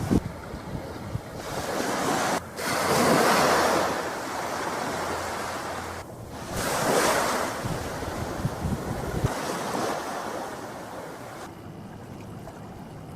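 Waves washing in at the shore, with wind rumbling on the microphone. The surf swells up loudest about three seconds in and again about seven seconds in, and goes quieter near the end.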